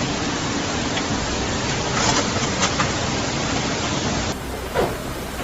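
Steady, loud roar of typhoon wind and heavy rain. About four seconds in it cuts abruptly to another stretch of similar storm noise.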